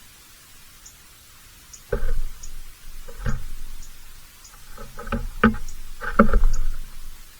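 A handful of irregular dull thumps and knocks over a steady hiss, with faint short high chirps or ticks between them.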